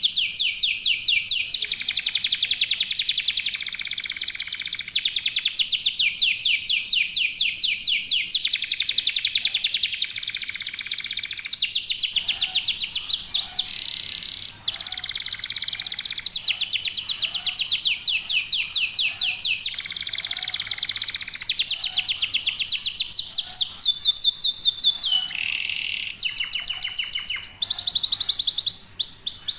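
Domestic canary singing a long, unbroken song of fast trills and repeated notes, switching to a new trill every second or two.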